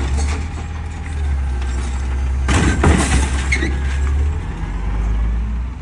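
Peterbilt 520 garbage truck's engine running with a steady low drone. About two and a half seconds in there is a loud, short noisy burst.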